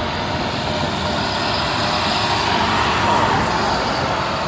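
International garbage truck driving past: a steady engine and tyre noise that swells to its loudest about three seconds in, then eases a little.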